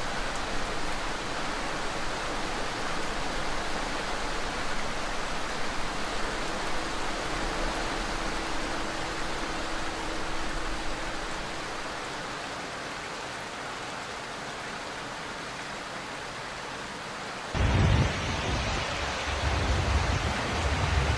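Steady hiss of heavy rain and water spray around a car driving through flooded streets. About 17 seconds in it cuts abruptly to an uneven low rumble.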